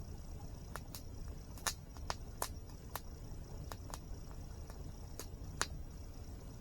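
Wood campfire crackling: about ten sharp, irregularly spaced pops, the loudest near the middle and about a second before the end. Underneath runs a steady low rush of a waterfall and a steady high-pitched trill.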